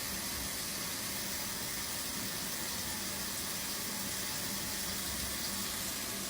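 Steady, even hiss at a constant level, with no breaks or distinct events.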